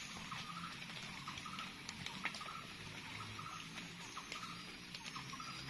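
Rain pattering steadily on rainforest foliage, with scattered sharp drips and a faint short chirp repeating every half second or so.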